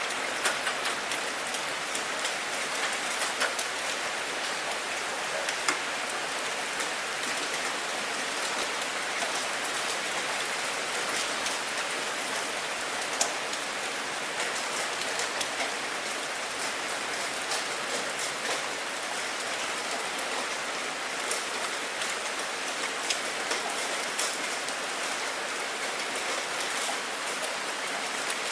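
Steady rain falling, a continuous hiss with many individual drops ticking sharply on a hard surface scattered throughout.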